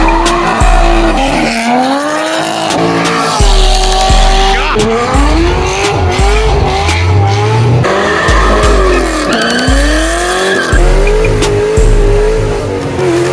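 Cars drifting, tires squealing and engines revving with wavering, sliding pitch, over music with a heavy bass that cuts in and out.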